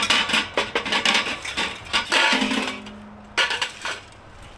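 Quick metallic clinks and rattles, with a short steady tone a little over two seconds in; the sound dies down near the end.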